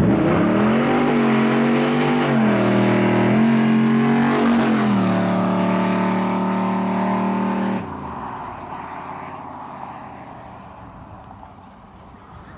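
396 V8 of an IROC-Z Camaro held at high revs during a burnout, the revs dipping and climbing again a few times over a loud tyre hiss. About eight seconds in the noise drops off sharply, and the remaining engine sound fades as the car pulls away.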